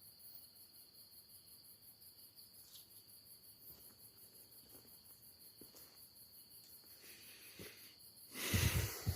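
Crickets chirring steadily at night: one high, even trill with fast pulsing above it. A brief louder rustle cuts in near the end.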